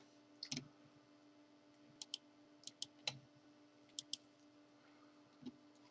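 Near silence with a faint steady hum, broken by several short sharp clicks, mostly in quick pairs, between about two and four seconds in.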